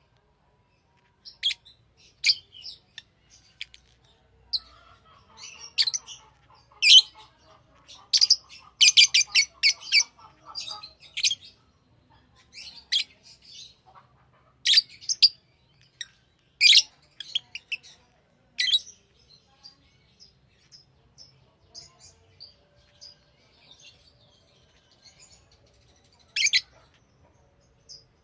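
Pet lovebirds giving short, sharp, high-pitched chirps at irregular intervals, with a quick run of chirps about eight to eleven seconds in. Under them, from about four to eleven seconds in, runs a softer, lower chatter.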